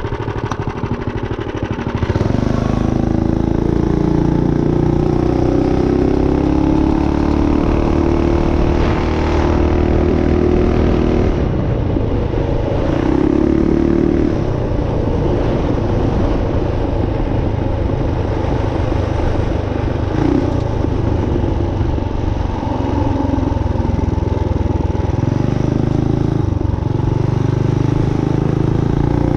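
Minibike's built Tillotson 212 single-cylinder four-stroke engine, quieter at first, then opened up about two seconds in and run hard, its pitch rising and falling with the throttle.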